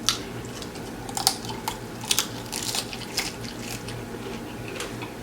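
Close-up wet chewing and lip-smacking while eating a taco: irregular sharp, moist clicks and smacks.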